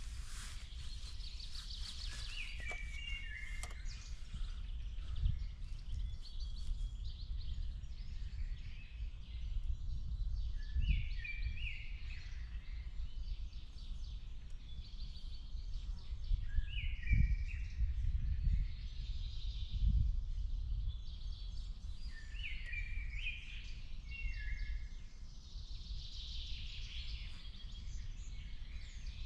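Woodland birdsong: one bird repeats a short phrase of stepped, falling notes every several seconds over fainter song from other birds. A steady low rumble lies underneath and swells a few times.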